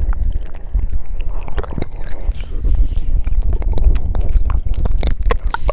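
ASMR mouth sounds close to the microphone: a stream of irregular wet clicks and smacks from lips and tongue, over a steady low rumble.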